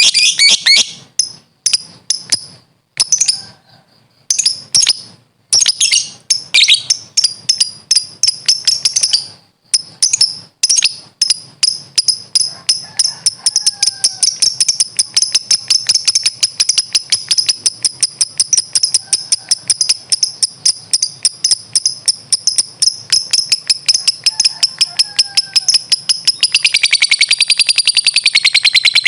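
Lovebird 'ngekek': a fast, shrill rattling chatter. It comes in short broken bursts for about the first ten seconds, then runs on unbroken as one long trill, growing fuller near the end.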